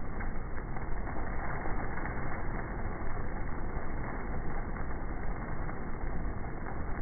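Heavy thunderstorm rain falling steadily, an even rushing noise with no breaks.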